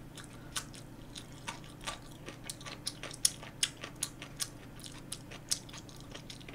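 Close-up mouth sounds of someone chewing spicy tteokbokki: irregular wet smacks and clicks, a few a second.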